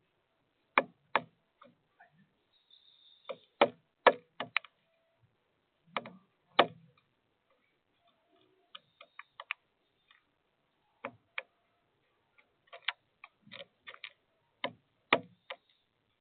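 A bird pecking and hammering at sunflower seeds on a feeder: irregular sharp knocks, some single and some in quick runs, with short pauses between.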